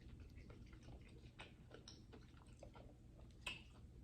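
Faint close-miked chewing: soft wet mouth clicks of someone eating, with one louder short crunch about three and a half seconds in.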